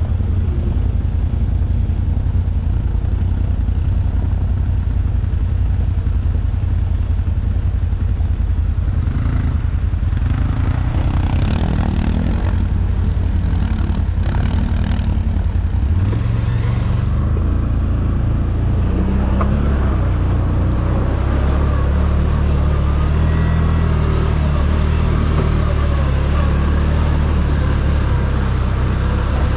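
ATV engine running at a steady speed, then from about halfway through revving higher, its pitch rising and stepping up and down with the throttle. A few knocks and rattles come through before the revving.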